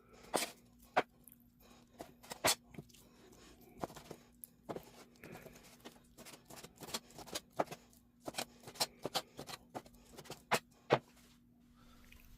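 Kitchen knife cutting raw chicken on a chopping board: irregular sharp knocks of the blade against the board, coming in quicker runs in the second half.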